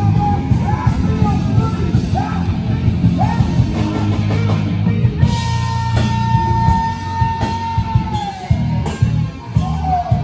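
Heavy rock music with a pounding beat and shouted, sung vocals; about halfway through, the singer holds one long note that slides down at its end.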